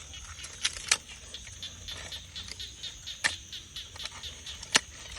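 Steady high-pitched insect drone, with a few sharp clicks or knocks of handling scattered through, the last and loudest near the end.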